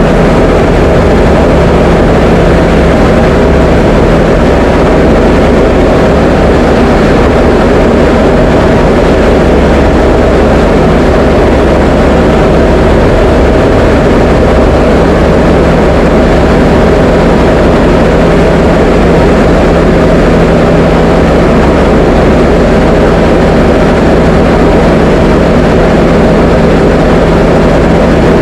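Diamond DA20 light aircraft's piston engine and propeller running steadily in flight: a loud, constant drone with a fixed low hum that does not change.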